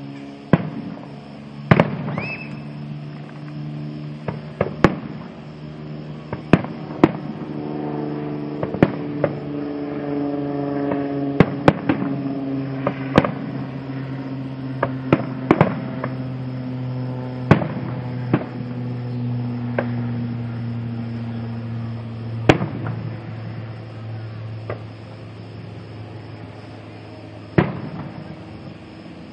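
Aerial fireworks shells bursting: about twenty sharp bangs at irregular intervals, some coming in quick clusters. Underneath runs a steady low drone that slowly sinks in pitch.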